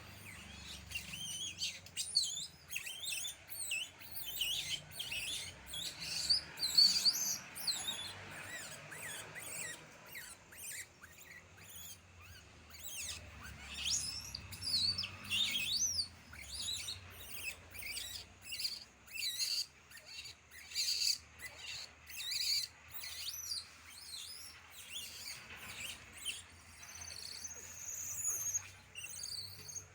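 Birds chirping, many short high chirps and whistles in quick irregular runs.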